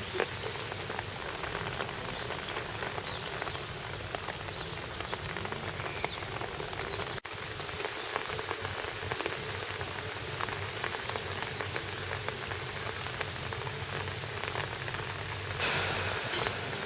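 Steady rain falling, with many small drop ticks. A louder rush of noise comes in near the end.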